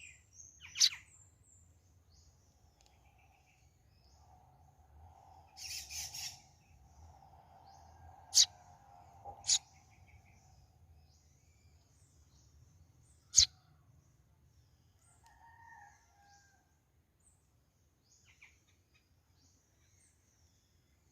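Pet sparrow chirping while being hand-fed Cerelac: a few short, sharp, high chirps, about a second in, twice around eight to nine and a half seconds, and once more a few seconds later, with fainter chirps scattered between.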